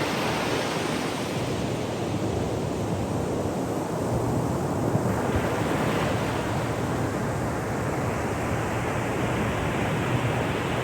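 Ocean surf washing onto a shore: a continuous rushing hiss, with a fresh wave breaking and swelling in brightness about halfway through.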